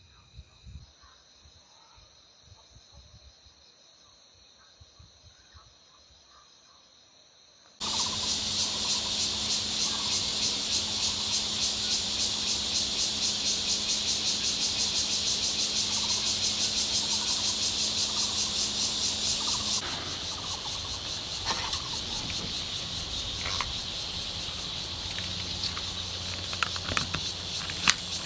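Insects calling in a steady high trilling chorus, faint at first, then much louder and more densely pulsing after a sudden change about eight seconds in, easing somewhat about twenty seconds in.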